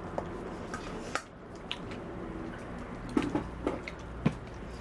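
Eating sounds: wet chewing and mouth smacks of a pork curry and rice meal, with a few sharper smacks near the end.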